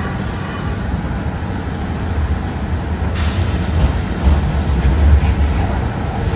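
Kintetsu electric train (2800, 2410 and 1400 series coupled) running, a steady low rumble that grows heavier about two seconds in.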